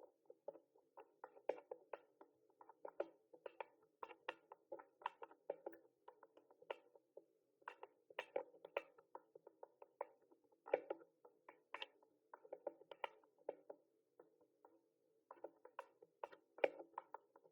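Mechanical keyboard typing: quick, irregular keystroke clicks in runs, with two short pauses, one about seven seconds in and one near the end.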